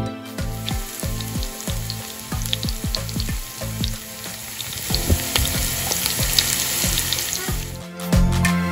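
Diced onions frying in hot oil in a pan: a steady sizzle with frequent small crackles. Background music comes back in loudly near the end.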